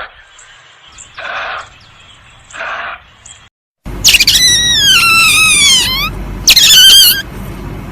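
Animal calls: two short hoarse calls, then after a brief break two loud, high, wavering calls that slide down in pitch, the first long and the second shorter.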